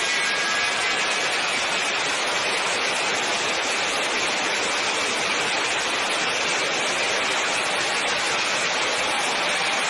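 Jet engine running steadily: an even rushing noise, with a faint high whine that fades out within the first second.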